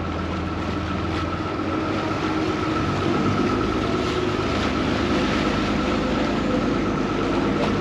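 Vaporetto water bus's diesel engine running steadily under way, with a steady high whine over the engine hum. It grows a little louder about two to three seconds in.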